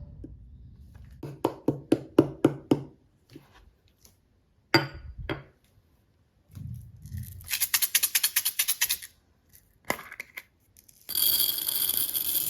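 Small hard plastic toy pieces and packaging being handled: a quick series of about eight sharp taps and clicks, a dull knock, then a fast rattling run of ticks and a short crinkling rustle near the end.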